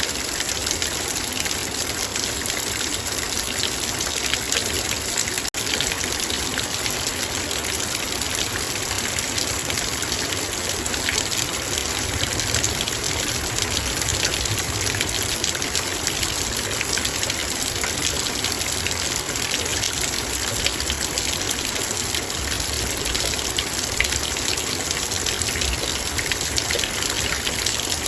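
Heavy rain falling on a metal bowl: a dense, steady patter of countless drops striking the metal.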